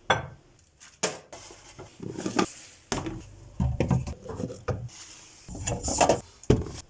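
Irregular knocks, clicks and clatter of household items being handled and set down, with a few louder taps about a second in, near the middle and near the end.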